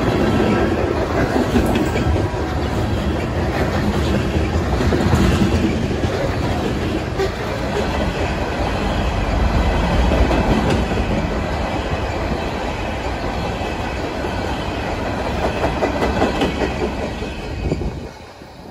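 Freight cars of a manifest train rolling past at close range, covered hoppers then open-top hoppers, with a steady rumble and the clickety-clack of steel wheels on the rails. The sound drops away sharply near the end as the last car passes.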